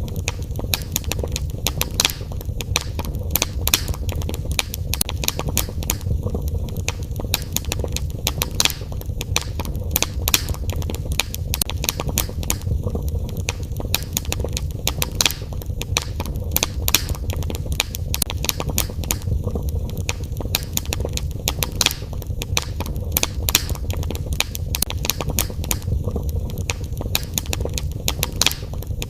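Wood fire in a fireplace crackling and popping: a dense, irregular run of sharp snaps over a steady low rumble of the flames.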